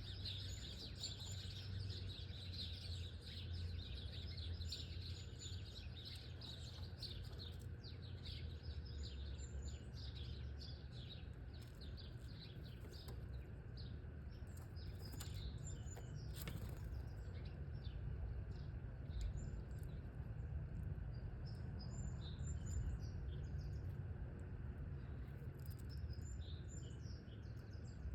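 Small songbirds chirping in many short, quick calls, scattered throughout, over a steady low rumble.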